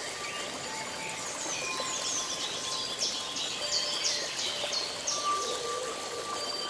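Birds singing: a run of high, quick down-slurred chirps, coming thickest from about two to five seconds in.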